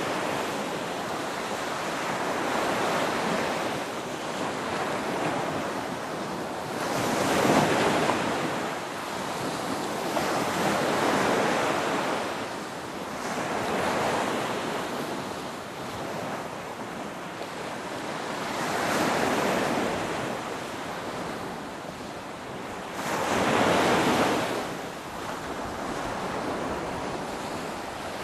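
Ocean waves breaking and washing in, one swell after another. Each surge builds and falls away over a few seconds, the loudest a quarter of the way in and again near the end.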